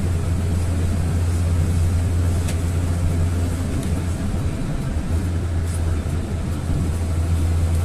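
GAZelle van driving at a steady pace: an even low drone of engine and road noise.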